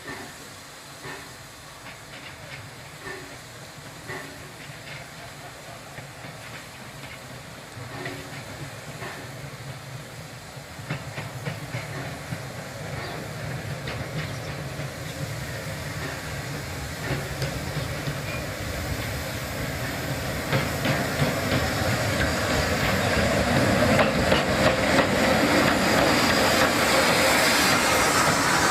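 Steam train approaching, growing steadily louder, with steam hissing and wheels clicking over the rail joints from about a third of the way in.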